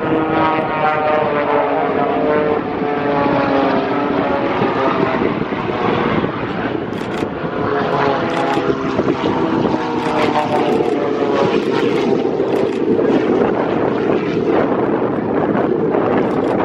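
Propeller-driven airplane flying past at an air show, its engine note falling in pitch as it goes by, with a second falling sweep a few seconds later.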